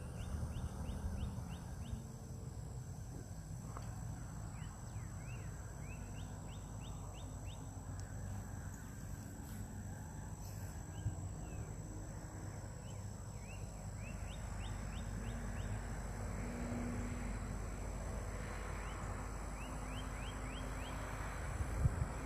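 Bird calling in quick runs of short chirps, five to eight notes each, repeated several times. Underneath is a steady low rumble of wind on the microphone and a constant high-pitched whine.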